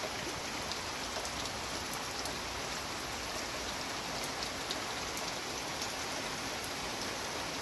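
Steady rain falling, an even hiss with scattered drops ticking on nearby surfaces.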